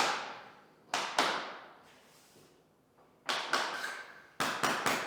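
Sharp knocks with short echoing tails, one pair about a second in and a quicker run from about three seconds on: vinyl click planks being knocked into place during flooring installation.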